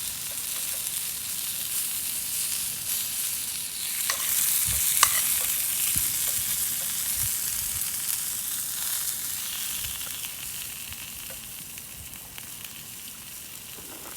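Food frying and sizzling in a pan, swelling louder a few seconds in with a couple of sharp clicks, then slowly dying down.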